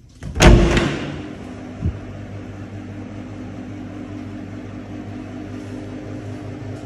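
A loud bang about half a second in that rings briefly, followed by a steady low mechanical hum and a smaller knock about two seconds in.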